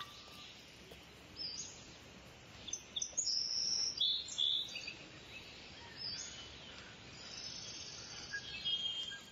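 Birds calling and chirping in woodland: several short, high calls come and go over a faint, steady background hiss.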